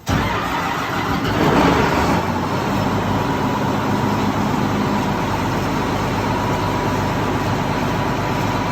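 Case IH 9230 combine's diesel engine starting cold after sitting since the end of harvest. It swells to its loudest about a second and a half in, then settles into a steady run with a thin steady whine over it.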